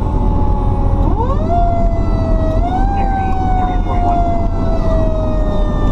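Fire truck's mechanical Q siren, spun up about a second in and again near three seconds, then slowly winding down in pitch, over the steady low rumble of the truck inside the cab.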